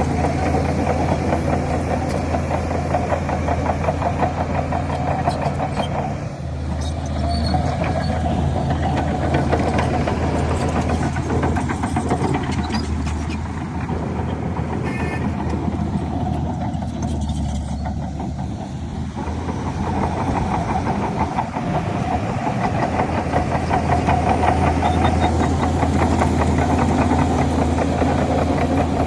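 Heavy diesel engine of earthmoving machinery running steadily with a rhythmic throb. Its note shifts and the sound eases briefly about six seconds in and again around eighteen seconds, as the engine load changes.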